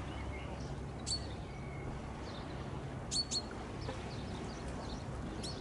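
Small birds chirping: short, high, falling chirps about a second in, a quick pair around three seconds in, and one more near the end, over a steady low background rumble.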